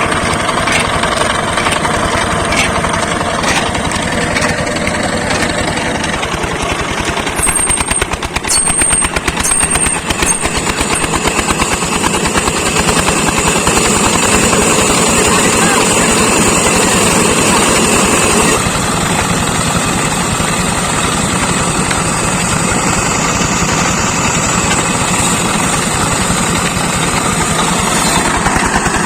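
Old 25 hp Petter diesel engine running with a fast, steady knocking beat. Its sound changes about two-thirds of the way through.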